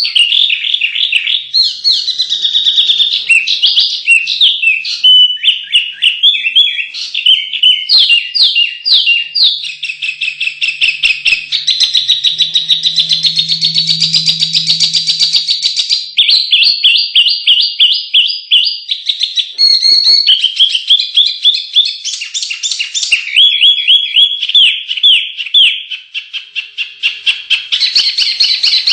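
Small songbirds singing an unbroken, loud run of rapid trills and chattering phrases, a new phrase every one to four seconds: a 'burcil tarung' fighting-song master recording of the kind used to spur caged contest birds into song.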